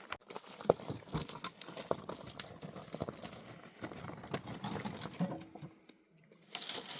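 Irregular rustling and crinkling with scattered clicks and knocks, as of something being handled, dropping away briefly near the end before a louder hiss.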